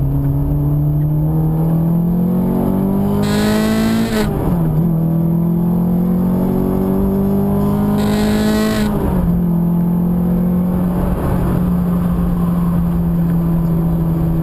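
Car engine heard from inside the cabin, accelerating through the gears: the revs climb, fall sharply at an upshift about four seconds in, climb again to a second upshift about five seconds later, then hold steady.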